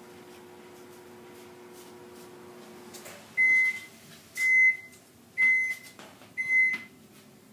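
Microwave oven running with a steady hum that cuts off about three seconds in, then four evenly spaced beeps about a second apart: the heating cycle has ended and the food is done.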